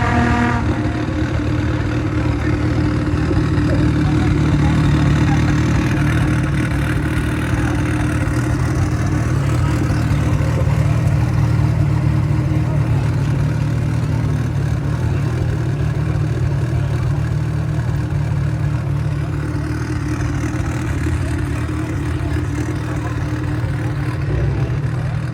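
Car engine idling steadily, a low continuous hum.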